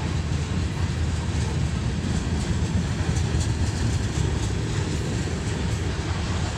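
Coal train rolling past with a steady low rumble and hiss of wheels on rail, a noise the railfans take for a brake application.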